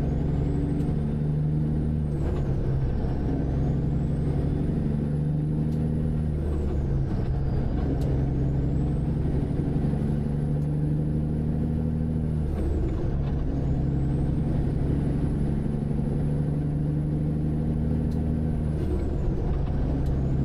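Semi truck's diesel engine pulling through the gears. A high whine climbs with the revs and drops sharply at each of about four upshifts.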